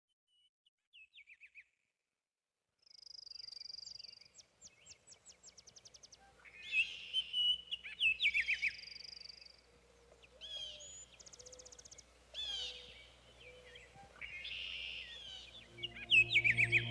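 Songbirds singing: a few faint chirps after a second of silence, then rapid trills, whistled phrases and repeated chirps from several birds. Near the end, sustained low music tones come in under the birdsong.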